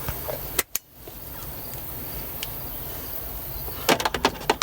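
Small hand tools and parts handled while stripping and preparing wire ends: one sharp click about half a second in, then a quick run of clicks near the end, over a steady background hiss.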